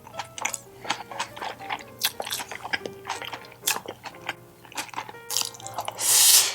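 Close-miked chewing and crunching of food, with many short wet clicks and one louder crunching burst near the end. Quiet background music underneath.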